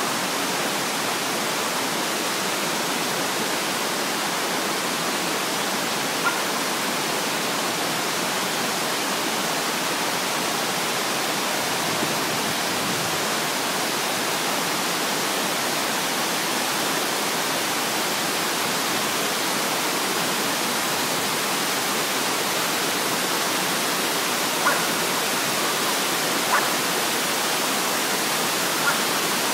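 Steady rush of Mossbrae Falls, water pouring down a broad, mossy cliff face. A few brief blips rise above it near the end.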